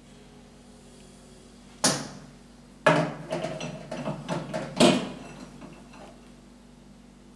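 A single sharp knock, then about two seconds of rattling knocks and clatter of hard objects, ending in a louder bang.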